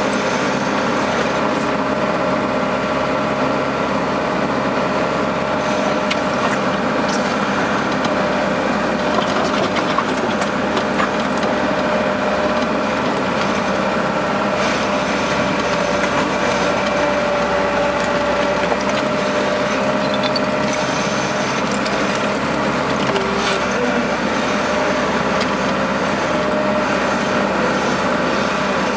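Case skid steer loader's diesel engine running steadily as the machine works, with occasional short clanks and rattles.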